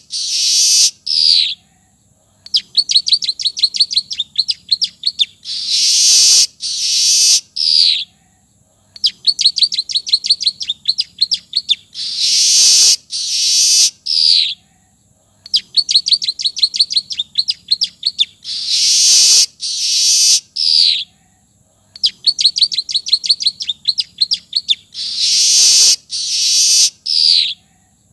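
A manyar (weaver bird) song phrase with ciblek (bar-winged prinia) phrases filled in, repeated over and over. Each phrase is a fast ticking trill, then a loud noisy burst and a short falling note, and the whole phrase comes back about every six and a half seconds, four times over.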